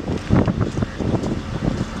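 Wind buffeting the microphone in uneven gusts, a loud irregular rumbling.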